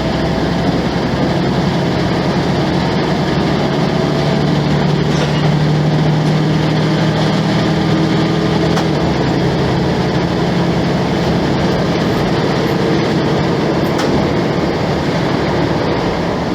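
Volvo B10M bus's underfloor straight-six diesel engine running steadily as a low drone over a dense rush of rolling noise, its pitch rising slightly about four seconds in.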